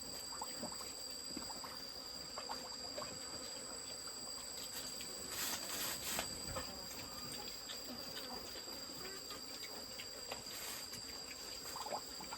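Insects, crickets or similar, trilling steadily in two high continuous tones, with faint scattered clicks and a short rustle about halfway through.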